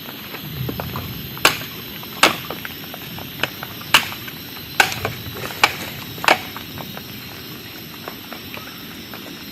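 A series of sharp knocks, six louder ones roughly a second apart with smaller ticks between them, over a steady background hiss.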